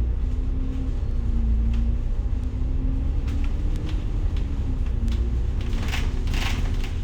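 City bus engine running, heard from inside the bus as a steady low rumble with a wavering engine hum. A short hiss comes about six seconds in.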